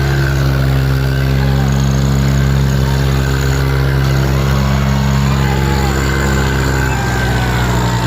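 Diesel engines of a John Deere 5310 and a Farmtrac 60 tractor running hard and steady under heavy load, the two tractors pulling against each other in a tug-of-war.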